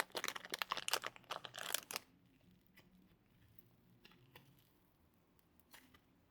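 Slime being squeezed and kneaded by hand, giving a dense run of crackling clicks and pops for about two seconds, then only scattered faint clicks.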